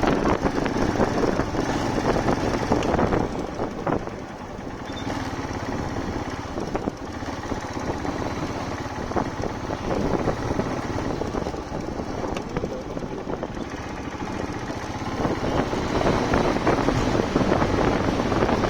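Motorcycle running during a ride, its engine noise mixed with road and wind noise. It eases off a little for most of the stretch and grows louder again near the end.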